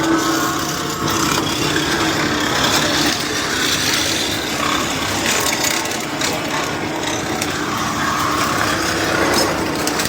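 A heavy machine's engine running steadily while confiscated racing exhausts are destroyed, with continuous scraping and crunching of metal.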